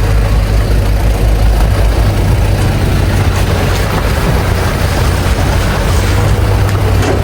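A vehicle's engine running steadily with a low hum, mixed with road or rain noise.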